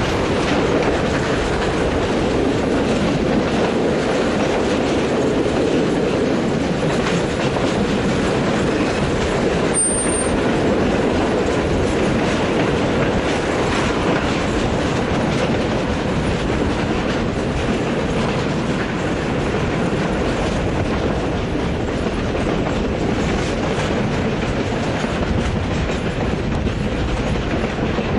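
Steam-hauled passenger train running along the track, heard from a carriage window: a steady, loud rumble of the carriage wheels on the rails.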